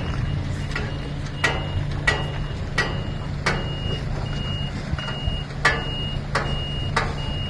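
A truck's reversing alarm beeping about one and a half times a second over the steady running of its engine, with sharp clicks at about the same pace.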